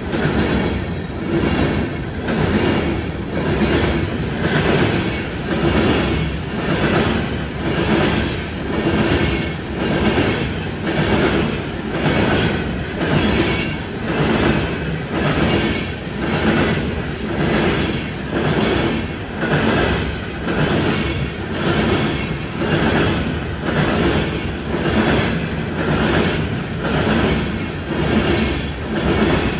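Empty coal gondolas of a CSX freight train rolling past close by, their wheels clacking over the rail joints in a steady rhythm of about one beat a second.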